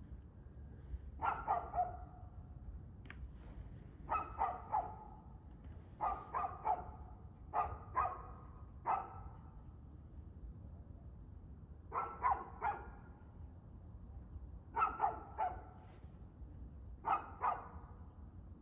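Dog barking in short volleys of two or three barks, one volley every few seconds, over a steady low background rumble.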